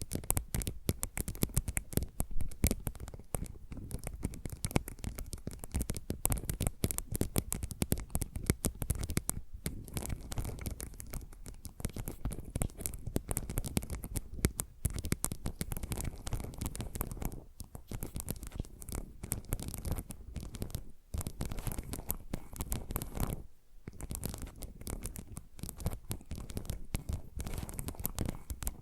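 Fingernails scratching and tapping rapidly on ASMR trigger objects, dense and continuous, with a brief pause near the end.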